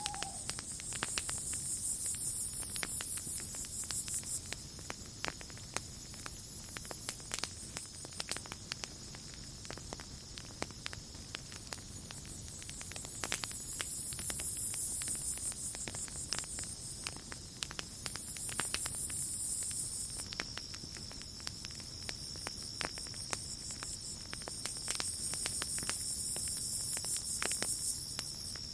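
Campfire crackling, with scattered sharp pops, over a night insect chorus. A steady high-pitched cricket trill runs throughout, and a still higher insect buzz swells and fades several times.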